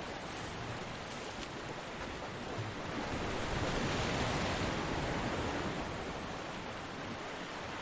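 Ocean surf: a steady wash of waves that swells about three seconds in, as a wave breaks, and eases back down after a couple of seconds.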